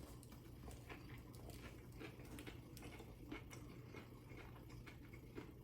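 Faint chewing of a sandwich: soft, scattered mouth clicks and smacks over a steady low hum from a room fan.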